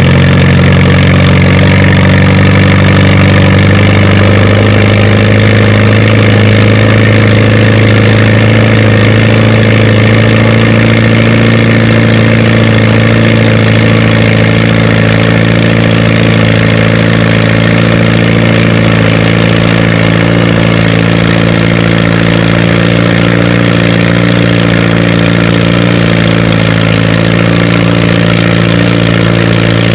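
Antique tractor engine running hard under load, pulling a weight-transfer sled down the track. The loud, steady engine note steps down slightly about four seconds in as the load builds.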